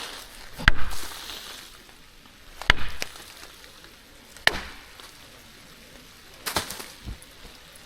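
Tree knocking: wood struck hard against a tree trunk four times, sharp single knocks about two seconds apart.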